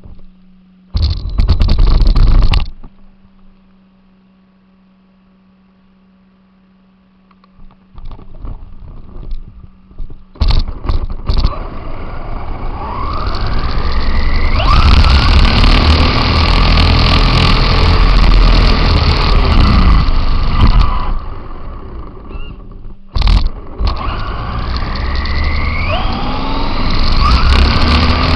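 RC car driving over rough ground, after a short loud burst about a second in and a quieter spell. From about ten seconds in its motor whine rises in pitch again and again as it speeds up, over loud rumbling and rattling, with a brief drop a little before the end.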